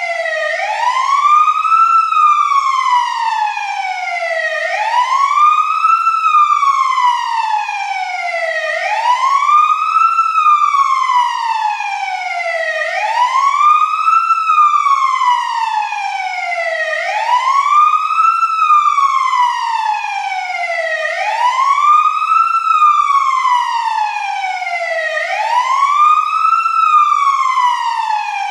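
Fire truck siren sounding a steady wail. The pitch sweeps up quickly, then slides down more slowly, about every four seconds, with no engine or traffic noise beneath it.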